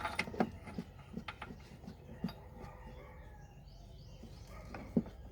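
A few light clicks and knocks in the first couple of seconds, then a single sharper knock near the end, over a steady low hum.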